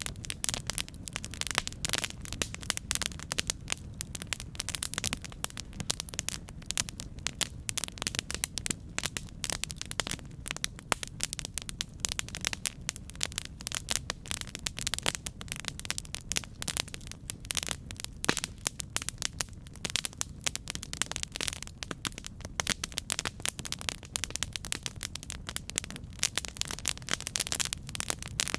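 Campfire burning: wood crackling and popping in a dense, irregular stream of sharp snaps over a steady low rumble of flame.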